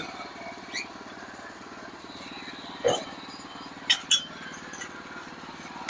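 Sawmill engine running steadily, with a few sharp knocks and clanks over it, two of them close together near the four-second mark.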